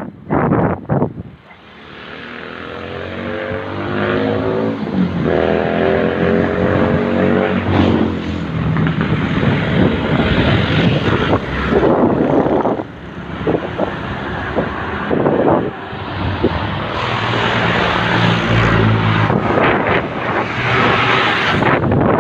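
Wind rushing over the microphone during a downhill ride, with a motor engine running underneath. The engine rises in pitch from about two seconds in to about eight seconds, and again near the end.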